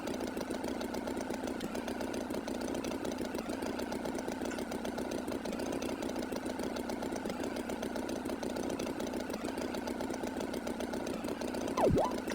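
A tractor engine idling with a steady, fast chugging. Near the end, a short swooping tone dives steeply down and springs back up, the loudest moment.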